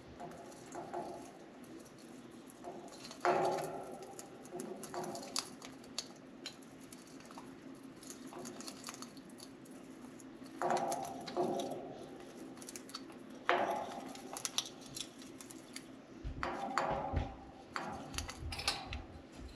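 Budgies picking at and chewing a soft-wood shredding toy: a steady run of small clicks, taps and scratches. It is broken by a few short bursts of budgie chirping and chatter scattered through.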